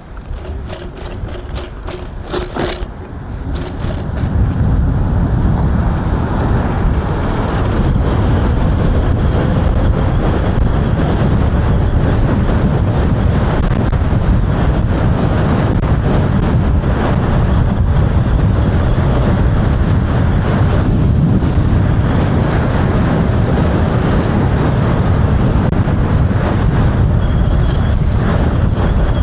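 Wind rushing over a helmet-mounted microphone, mixed with tyre noise from an electric hyperscooter riding off-road. It is quieter at first, with a few sharp clicks, then grows louder and steady about four seconds in as the scooter gets up to speed.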